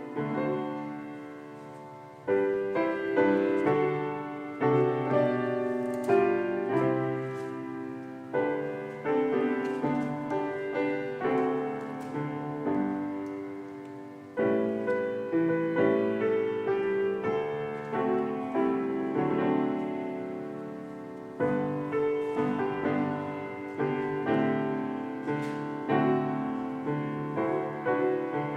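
Solo piano playing a slow, gentle offertory, notes and chords struck and left to ring and fade.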